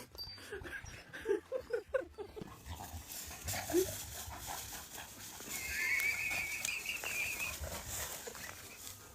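An animal calling: a few short calls, then a longer, higher wavering call about six seconds in.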